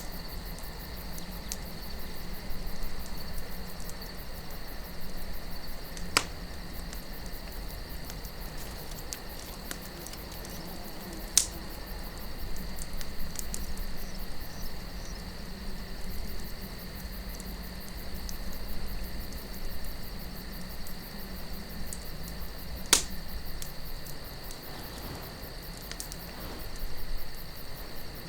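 Campfire burning with soft crackling and three sharp pops from the wood, over a low steady wind and a constant high-pitched trill.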